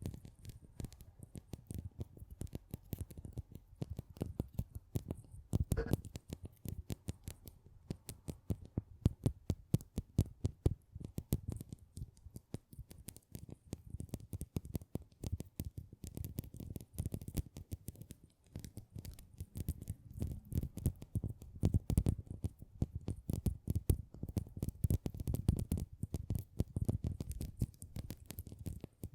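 Close-miked ASMR trigger sound: a dense, irregular run of small clicks and crackles from objects being handled.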